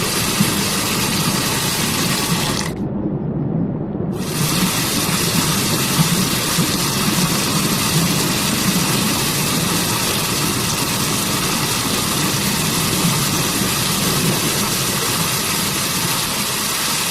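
Waterfall rushing steadily, a dense even roar of falling water with a strong low rumble. About three seconds in, the higher part of the sound drops out for a second and a half, leaving it briefly muffled.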